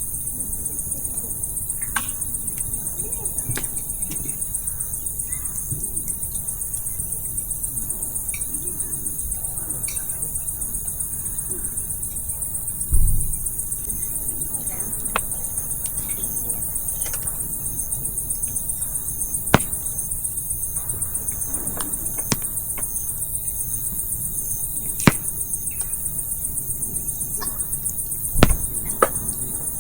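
Campfire crackling, with sharp irregular pops from the burning firewood, over a steady high-pitched chorus of crickets. Two dull thumps, one about halfway through and one near the end.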